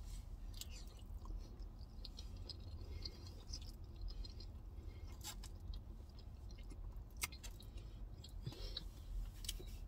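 A person chewing chili cheese fries with mouth closed, faint and wet, with a few short sharp clicks scattered through, over a steady low hum.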